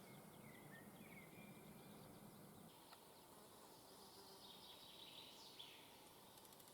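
Near silence with faint bird chirps.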